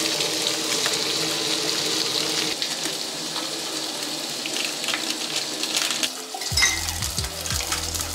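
Hot dogs and an egg sizzling in oil in a nonstick frying pan, a steady frying hiss, with a few light clicks of utensils near the end.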